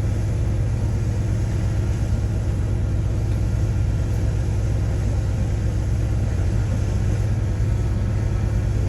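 Heavy diesel engine of a bulldozer running steadily, a continuous low rumble without pauses or changes in speed.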